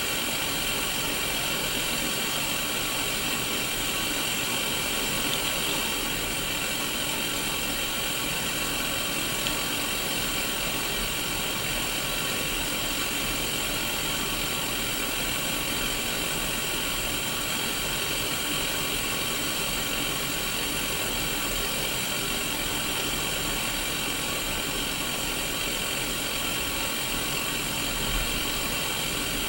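Static hiss from an untuned Sony Mega Watchman portable black-and-white CRT TV, steady and unbroken, brightest in the upper-middle range.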